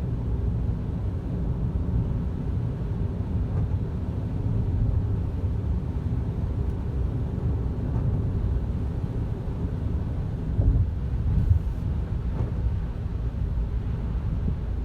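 Steady low rumble of road and engine noise heard inside a moving car, with a couple of brief louder bumps about eleven seconds in.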